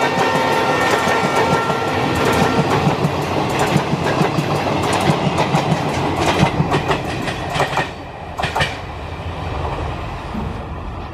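ICF passenger coaches passing close at speed, wheels clattering rhythmically over the rail joints. A steady multi-note tone dies away about two seconds in, and the clatter drops off sharply as the last coaches go by near the end.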